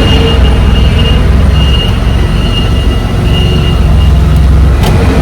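Semi-truck's diesel engine running with a heavy, steady low rumble during slow maneuvering, with a faint high whine that comes and goes. There is a short sharp click near the end.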